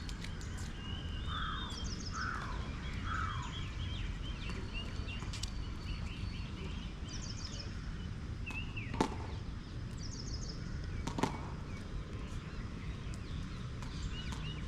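Two sharp tennis ball strikes by a racket about two seconds apart, near the middle of the stretch, over a steady low rumble, with birds chirping and calling throughout.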